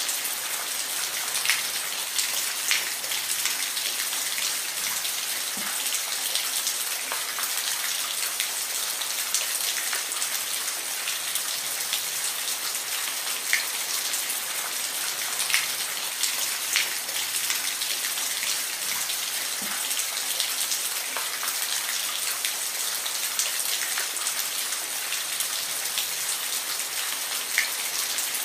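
Steady rain, a constant hiss with scattered close drops ticking sharply on a surface.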